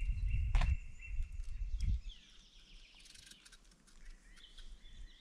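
A low rumble for about the first two seconds, then small birds chirping and twittering faintly.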